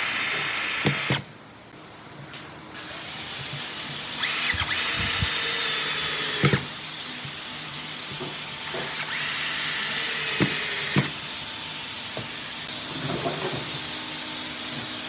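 Handheld power tool, drill-like, running in short bursts. A high whine cuts off about a second in, then two more runs of about two seconds each follow. Each run rises in pitch as the motor spins up and ends with a knock.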